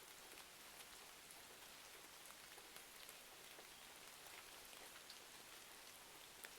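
Faint ambience of steady rain and a crackling fire: an even hiss dotted with small sharp crackles, with one louder pop near the end.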